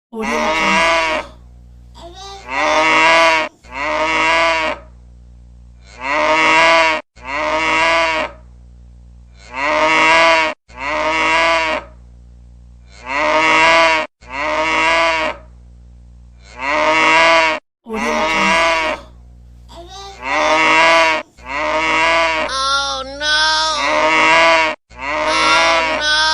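Cow-moo ringtone: two pitched moos in quick succession, the pair repeating about every three and a half seconds in a loop. Near the end, extra moos at other pitches overlap the loop.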